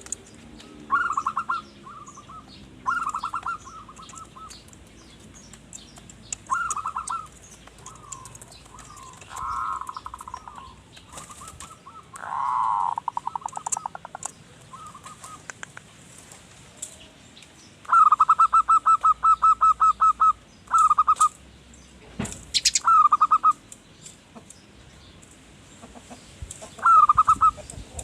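Zebra dove (perkutut) singing its staccato cooing song: repeated short bursts of rapid purring, pulsed notes, with one longer rattling run about two-thirds of the way through. Fainter high chirps of small birds and a single sharp click come between the phrases.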